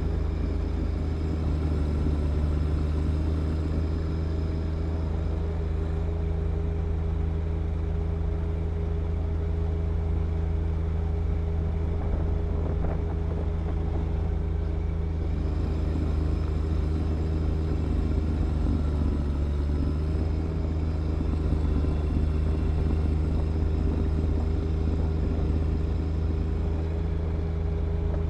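John Deere 1025R compact tractor's diesel engine running steadily at working speed while driving a snow blower through wet snow, its note dipping briefly about two-thirds of the way through.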